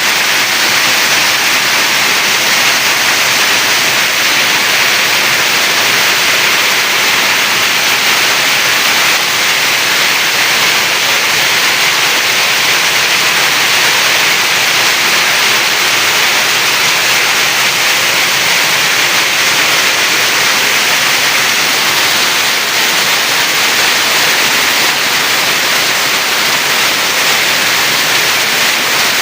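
Heavy rain pouring down, heard from inside a house as a loud, steady hiss.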